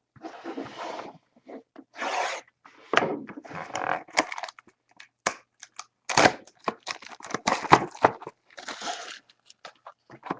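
A sealed box of trading cards being torn open: a series of short rips and crackles of tearing wrapping and cardboard, coming in irregular spurts with brief pauses.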